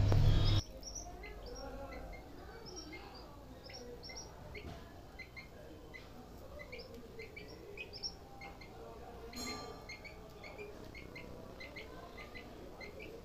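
Birds chirping: many short, high tweets scattered throughout, over faint outdoor background.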